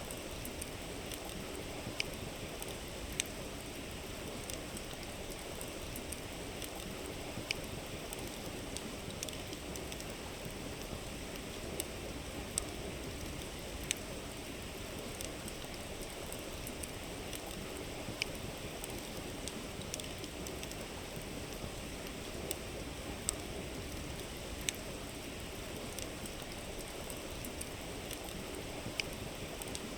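River flowing steadily, with a campfire's burning wood giving off sharp, irregular crackles and pops every second or few.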